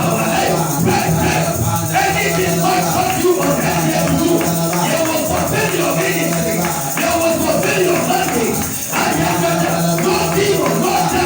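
Church background music: a held keyboard note with hand-percussion shaking in rhythm, and many voices praying aloud together underneath it.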